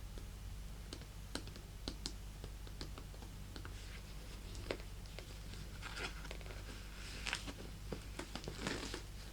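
Fingernails tapping and scratching on a handbag: scattered light taps, then, from about six seconds in, denser rustling, crinkly handling.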